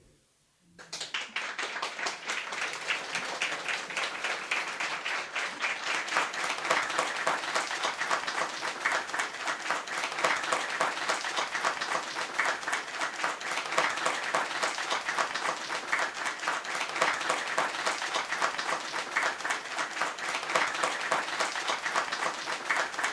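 An audience applauding, starting about a second in and keeping up steadily, many hands clapping.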